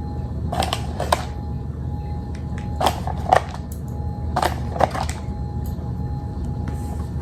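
Grated Parmesan cheese being shaken out of its container over the chicken: three pairs of short shakes, each pair about half a second apart, over a steady low hum.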